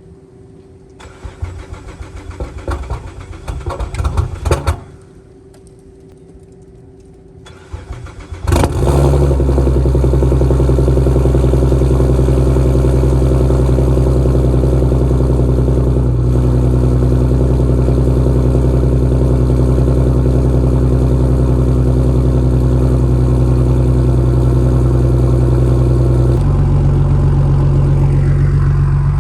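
Turbocharged car engine starting about eight seconds in, then idling with a loud, steady note. The note shifts near the end.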